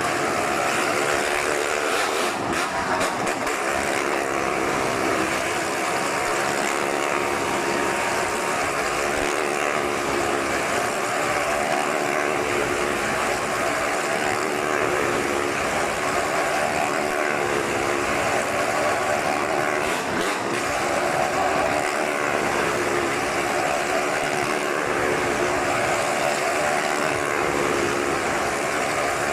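Motorcycle engine on a wall of death running steadily the whole time, with no pauses or sharp changes in level.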